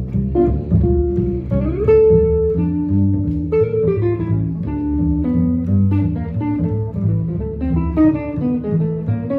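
Jazz guitar and bass playing an instrumental passage with no vocals: a single-note guitar line, sliding up once about two seconds in, over a plucked bass line.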